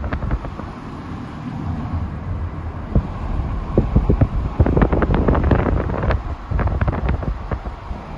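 Wind buffeting the microphone over a steady low rumble, with scattered short knocks and crackles.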